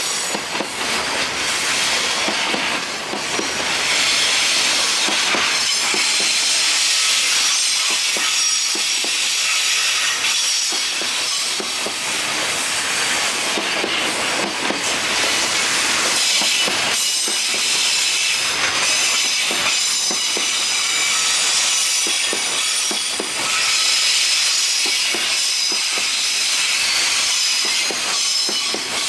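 Long JR Freight container train rolling past at close range. Its wheels clatter over the rail joints in a fast, irregular run of clacks, under a thin, high, steady flange squeal.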